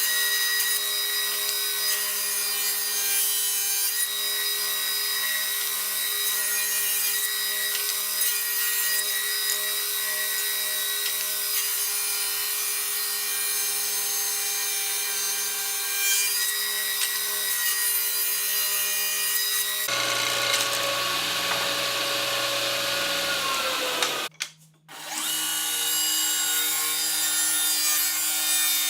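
An electric power tool runs steadily, with a constant motor hum under the noise of sanding or grinding against the workpiece. The sound changes about two-thirds of the way in and cuts out for a moment shortly after, then the tool runs on.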